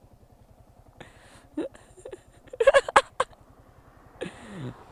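Men's short non-word vocal sounds, laughs and exclamations, loudest about halfway through with a couple of sharp clicks, and a falling cry near the end, over a steady low, evenly pulsing throb.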